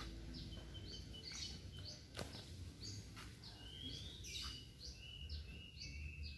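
Faint, repeated small bird chirps over quiet outdoor background noise, with a light click about two seconds in.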